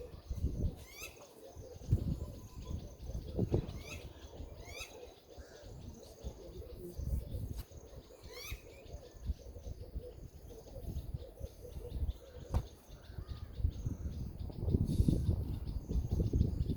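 Birds calling with short, repeated sweeping whistles, over a faint steady high insect trill and uneven low rumbling noise.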